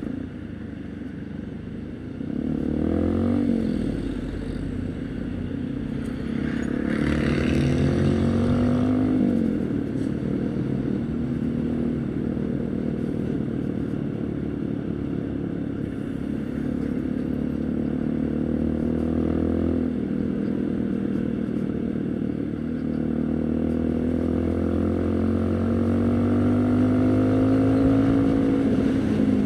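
Haojue NK150's single-cylinder four-stroke motorcycle engine under way. The revs rise and drop a few times in the first ten seconds, then hold fairly steady and climb slowly and evenly near the end.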